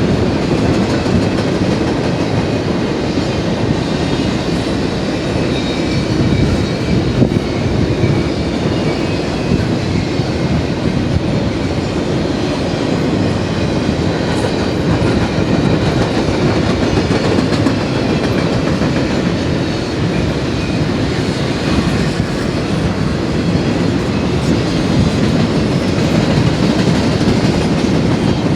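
BNSF double-stack container train rolling past at speed: a steady rumble of wheels on rail with a rhythmic clickety-clack from the passing cars.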